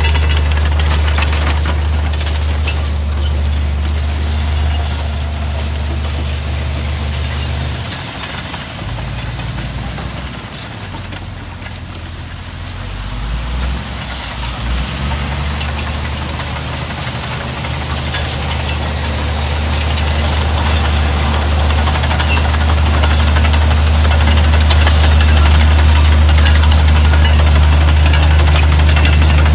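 Heavy earthmoving machine's diesel engine running with a loud, steady low drone. About eight seconds in, the drone drops in level and wavers in pitch for several seconds, then settles back and grows a little louder toward the end.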